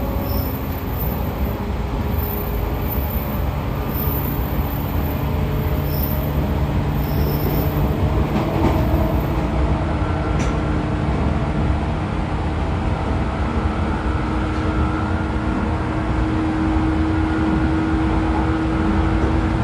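Running noise heard inside a JR 113 series electric train car: steady wheel-on-rail rumble with a whine from the MT54 DC traction motors and gears. The whine creeps slightly up in pitch through the second half.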